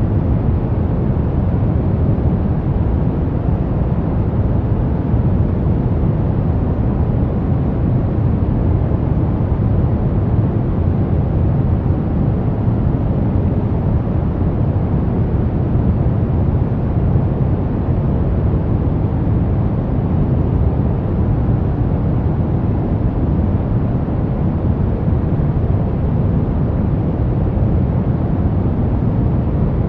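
Steady brown noise: a constant, deep rumbling hiss, strongest in the bass and fading toward the treble, with no changes or events.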